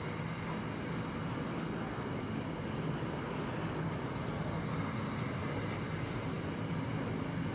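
Container wagons of a freight train rolling slowly past, a steady noise of steel wheels on the rails.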